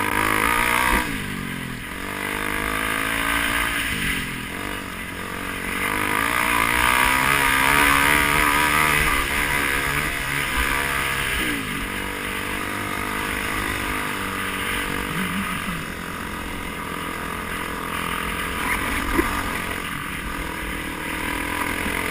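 A vehicle engine under way, revving up and dropping back several times as it accelerates and shifts.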